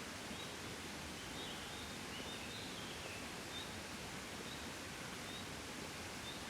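Gentle wind, a soft steady breeze. A faint high chirp repeats about once a second throughout, with a brief twittering about two seconds in.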